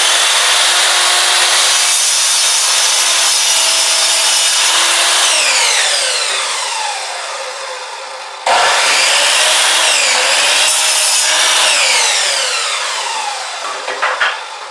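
Chop saw cutting wood twice: the motor runs loud through a cut, then its whine falls away as the blade spins down. It starts again suddenly about eight seconds in and winds down again, with a few clicks near the end.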